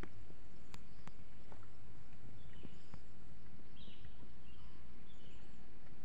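Small wild birds chirping now and then, with a few high, arching whistled calls, over a steady low rumble. A few sharp clicks in the first three seconds.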